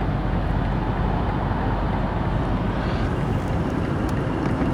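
BMW X5 M Competition's 4.4-litre twin-turbo V8 idling steadily, heard from inside the cabin.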